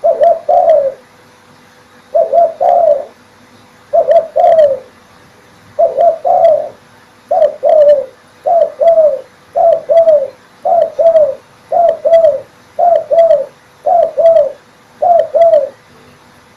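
Male spotted dove (derkuku) cooing loudly, a short phrase of two or three coo notes repeated over and over. The phrases come about every two seconds at first and then about once a second.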